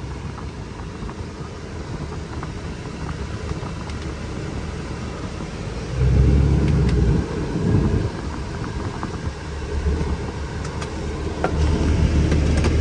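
2004 Dodge Ram 2500's 5.9-litre Cummins inline-six turbo diesel running with a steady low rumble. About halfway through it briefly gets louder for a second or two, then settles into a steady, somewhat louder rumble near the end.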